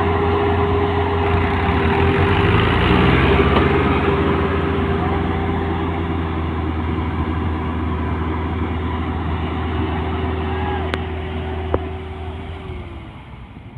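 Tractor diesel engine running loud and steady, its pitch dropping as it eases off near the end. A sharp click sounds about eleven seconds in.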